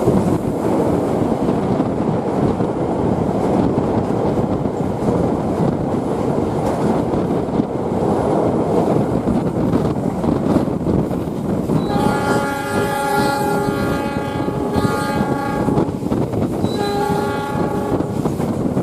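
Passenger train running on the rails with a steady rumble and wheel noise. About twelve seconds in, the locomotive horn sounds a long blast of about four seconds, then a short blast a second later.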